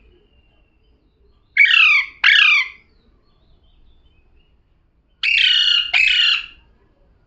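Pet parrot calling loudly: two-note calls given twice, about three and a half seconds apart.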